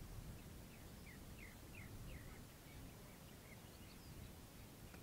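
Faint desert dusk ambience: a small bird calling a string of short, quick chirps over a low background rumble.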